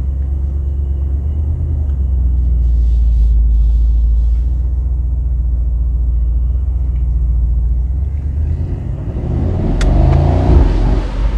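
Mercedes-AMG SL 63's twin-turbo V8 with a low, steady exhaust rumble as the car pulls away. Near the end it revs up harder under acceleration, preceded by a short click.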